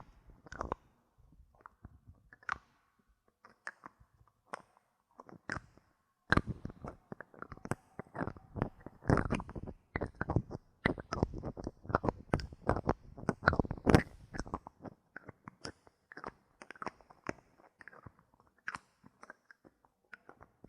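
Bottle caps handled close to the microphone: scattered sharp clicks and taps, then a dense run of quick clicks and crackles from about six seconds in to about fifteen, thinning out again near the end.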